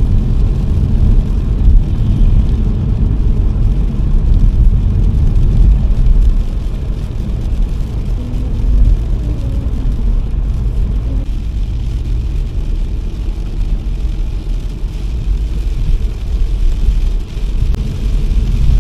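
Car driving on a wet road in the rain, heard from inside the cabin: a steady low rumble of road and engine noise, with a faint rising and falling tone about halfway through.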